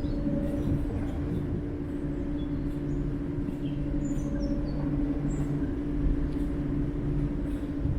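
Heritage British Rail diesel locomotive engine running steadily, a constant low hum with a rumble beneath it. A few birds chirp briefly over it.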